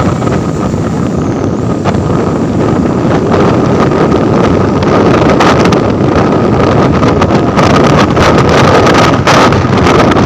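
Truck engine running hard as the truck passes, with wind buffeting the microphone; it gets louder about three seconds in.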